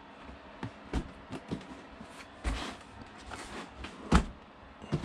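A cardboard retail box being handled and turned over: a string of scattered knocks, taps and light scrapes, with the loudest thump about four seconds in.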